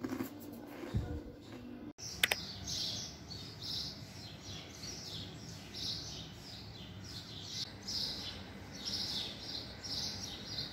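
Small birds chirping, short high calls repeating about twice a second over a steady background of outdoor noise, with a single sharp click about two seconds in.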